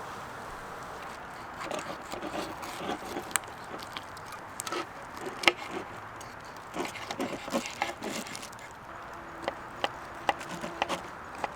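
Irregular wooden clicks, knocks and scraping from handling at a wood-fire grill, coming in small clusters. A low steady note sounds for about two seconds near the end.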